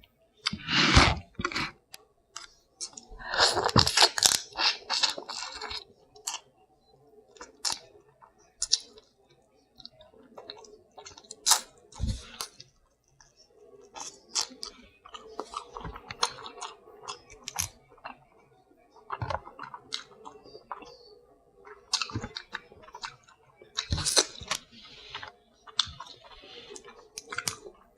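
Close-miked chewing of seafood, with many short, sharp wet mouth clicks. A louder stretch of crunching or tearing comes about three to six seconds in.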